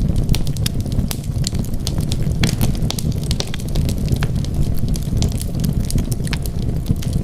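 Wood fire burning with a steady low rumble and frequent sharp pops and crackles.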